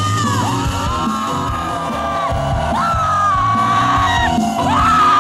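Live rock band playing, with a high lead line that slides up into long held notes over bass and drums.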